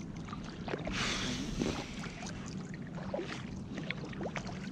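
Water sloshing and dripping around a kayak on the river, with a swell of splashing about a second in and scattered small drips. A steady low hum runs underneath.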